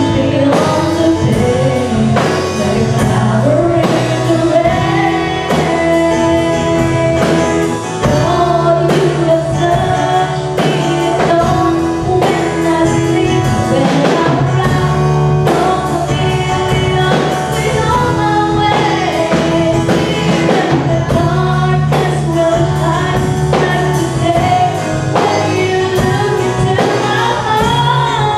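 A song: a singer's voice over a band, with a steady beat.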